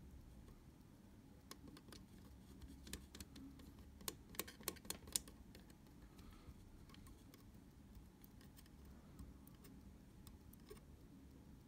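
Small sharp clicks and taps of hands and small tools working on a camera mechanism, with a quick cluster of about five clicks about four seconds in, over a low steady hum.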